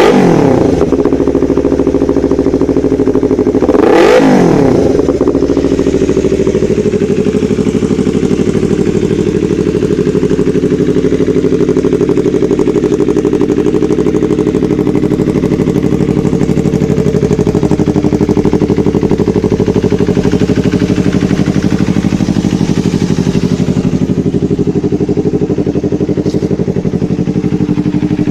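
Yamaha YZF-R25's 250 cc parallel-twin engine breathing through a WRX GP6 aftermarket exhaust. The revs drop back at the start, the throttle is blipped once about four seconds in, and then the engine idles steadily.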